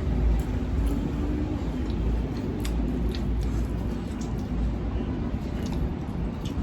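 Close-up eating sounds: chewing and small mouth clicks over a steady low background rumble.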